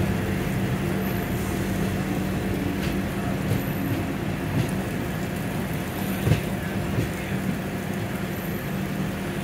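Running noise of a moving passenger train heard from an open coach doorway, with a Mumbai suburban electric local train running alongside on the next track. A steady rumble with a low hum, and wheels knocking over rail joints now and then.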